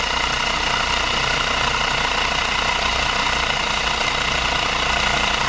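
Rocker-V 35cc Stirling hot-air engine running fast and steadily, a continuous mechanical running sound.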